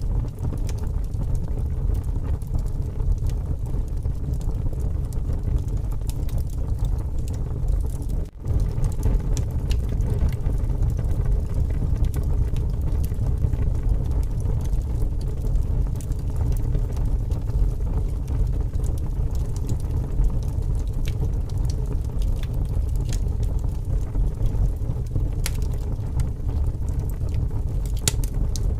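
Wood fire crackling and popping in strong wind, the wind's steady low rumble the loudest part. The sound drops out briefly about eight seconds in.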